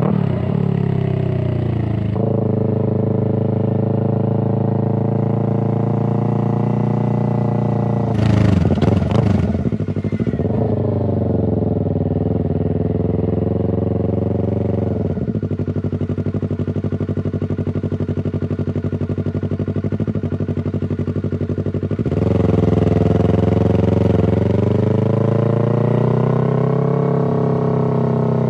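Exhaust note of a Yamaha R3's parallel-twin engine through a Toce full exhaust system with the dB killer installed, running continuously. A quick burst of revving comes about eight seconds in. The middle settles to a lower, steadier beat, then gets louder, and the pitch climbs slowly near the end.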